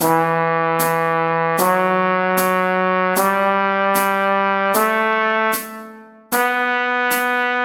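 Trumpet playing a slow scale exercise in long held notes that rise step by step, each lasting about a second and a half, with a breath break a little past halfway. A sharp metronome-like click ticks along about every 0.8 seconds.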